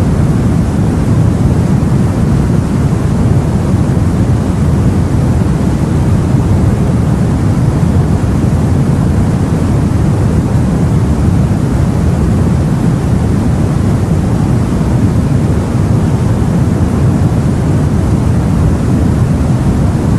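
Steady, deep rushing noise of sea water and wind, heavy in the low end, with no separate waves breaking or swells rising and falling.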